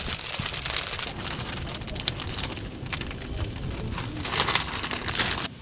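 Strong wind gusting, a hissing rush that swells and eases with a low rumble of wind buffeting the microphone; it cuts off abruptly near the end.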